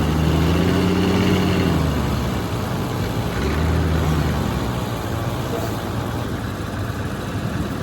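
Heavy diesel earthmoving machinery running: a low, steady engine hum that swells for the first couple of seconds and again about three and a half seconds in, over constant machine noise.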